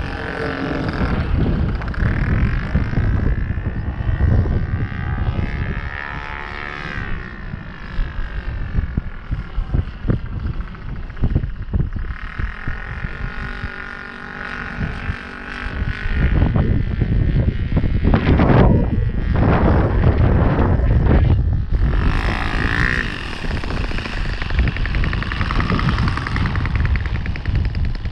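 Saito FG-21 four-stroke gasoline engine of a Hangar 9 Carbon Cub RC plane in flight, its pitch rising and falling repeatedly, over wind rumble on the microphone.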